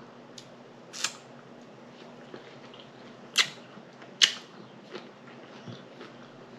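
Close-up eating sounds as salad and fruit are eaten: three sharp, clicky crunches, about a second in and twice more between three and four and a half seconds in, with fainter ticks and smacks between them.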